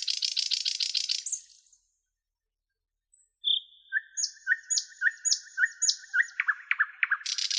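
A nightingale singing: a fast trill that stops about a second and a half in, then after a pause a new phrase of repeated two-part whistled notes about twice a second, running into rapid trills near the end.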